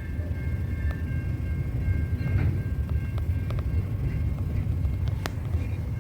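Freight train rolling past with a steady low rumble, a faint high-pitched squeal held throughout, and a few sharp clicks from the wheels, the loudest about five seconds in.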